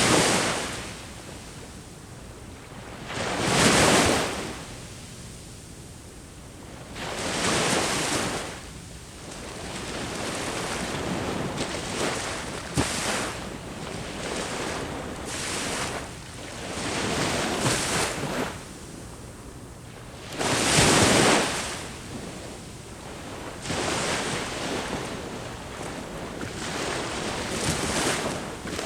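Ocean waves breaking on the shore, the surf swelling and falling back in surges every few seconds, loudest about four seconds in and again about twenty seconds in.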